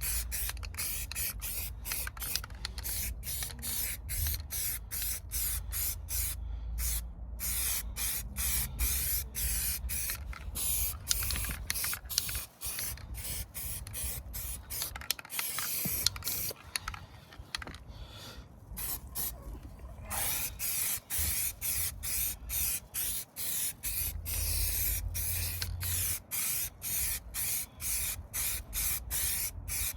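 Paint being sprayed onto a repaired car sill: a hiss broken by short pauses a few times a second, easing off for several seconds around the middle.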